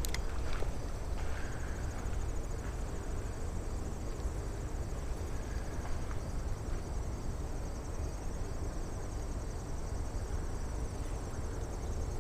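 Insects trilling steadily in a high, fast-pulsing chorus, over a steady low rumble, with a few faint clicks.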